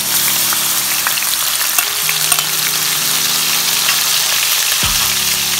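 Onion paste sizzling hard in hot oil in a frying pan: a loud, steady crackling hiss with scattered pops.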